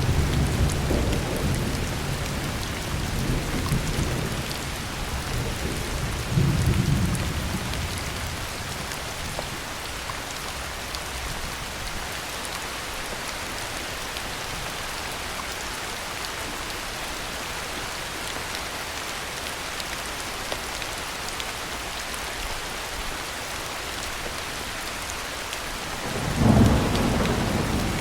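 Heavy rain falling steadily with thunder: a rumble dies away over the first several seconds, another swells about six seconds in, and a sudden louder thunderclap rolls in near the end.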